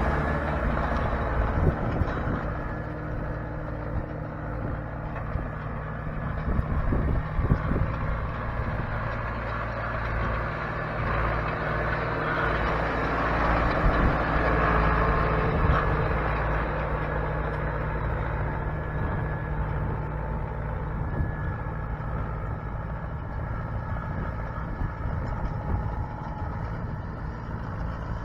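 Case 430 tractor's engine running steadily as it works cutting a dirt road, with a few sharp knocks from the machine.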